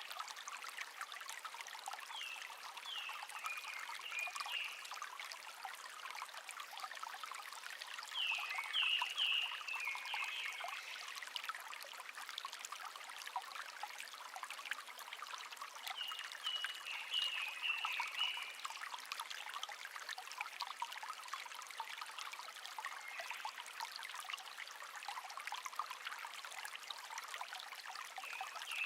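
A shallow brook babbling steadily, with a songbird singing three short phrases of quick notes that step down in pitch, a few seconds apart.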